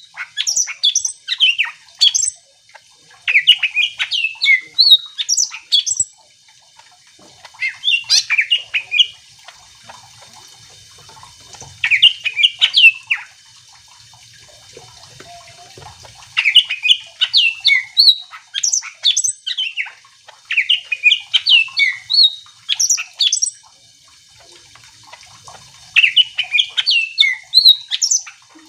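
Green leafbird (cucak ijo) singing in loud phrases of rapid chattering and whistled notes. Each phrase lasts one to three seconds and is followed by a short pause.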